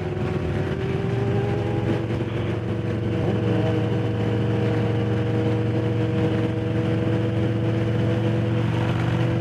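Harley-Davidson Low Rider S's Milwaukee-Eight 117 V-twin running at a steady cruising speed while riding, holding an even pitch.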